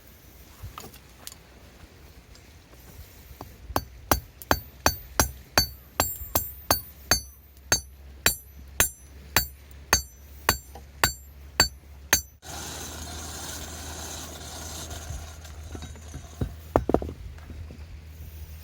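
A hammer striking metal in a steady rhythm, about two to three ringing blows a second for some eight seconds. It cuts off abruptly into a steady hiss, with a couple of dull knocks near the end.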